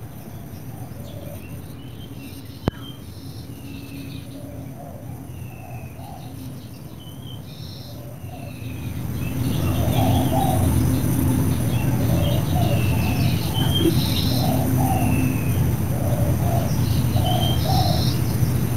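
Birds calling: short groups of low repeated notes and high, brief chirps that slide down in pitch. Under them a low rumble grows louder about halfway through, and there is one sharp click near the start.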